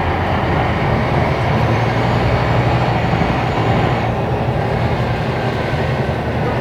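Scania K270IB city bus engine running loudly under load, its low drone climbing slightly in pitch, then its higher sound easing off about four seconds in.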